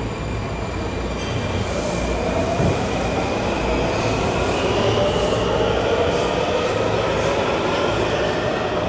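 Washington Metro train pulling out of an underground station: steady running noise of wheels on rail, with a whine and wheel squeal that come up from a few seconds in.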